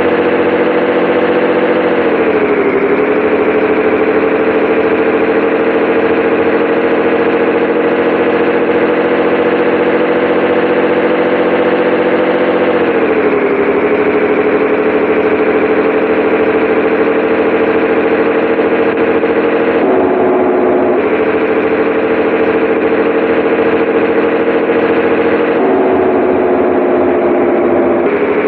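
Scania 113H 360 truck's diesel engine running with a steady drone; its pitch drops slightly about two seconds in and again about thirteen seconds in, and the tone shifts briefly near twenty seconds and again around twenty-six seconds.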